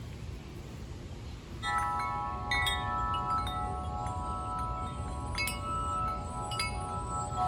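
Wind chimes starting to ring about a second and a half in, several tones struck at once and struck again a few times, each left ringing, over a low steady rumble.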